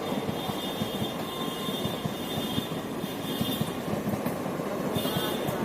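A rail vehicle running, with a steady rattle and a high squeal that comes and goes, loudest near the end.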